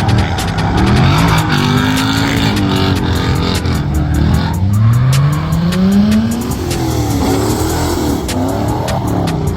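Car engine revving hard up and down under load, with a long rising rev about halfway through; tyre noise from sliding runs underneath.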